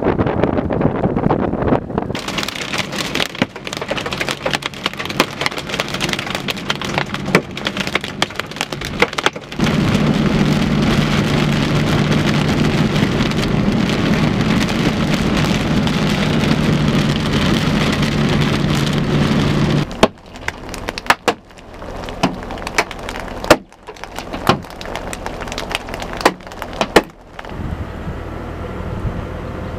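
Large hail, up to golf-ball size, hitting a vehicle in a dense clatter of impacts, with a steady low hum under it for a while. About twenty seconds in, the hits thin out to scattered loud strikes.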